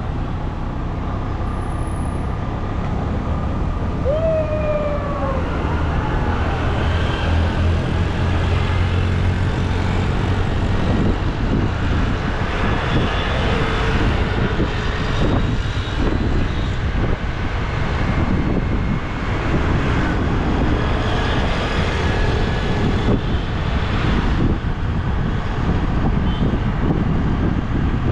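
Motorbike engine running steadily while riding along a road, with road and traffic noise. A short wavering tone about four seconds in.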